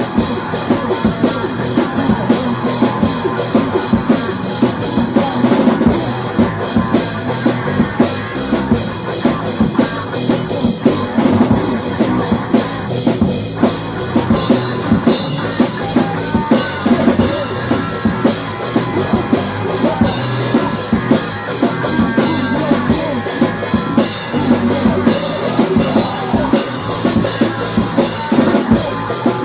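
Instrumental rock music with a drum kit keeping a steady beat, kick and snare hits driving it throughout.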